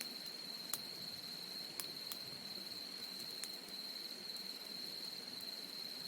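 Crickets trilling in one continuous, steady high-pitched note, with a few sharp clicks scattered through it.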